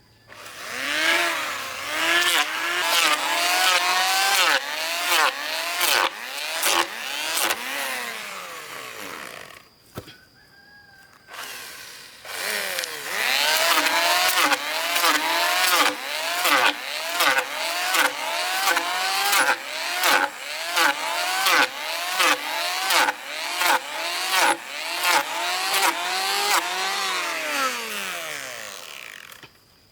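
Chainsaw engine revving in quick repeated surges, its pitch climbing and dipping over and over, in two long runs with a short stop about ten seconds in.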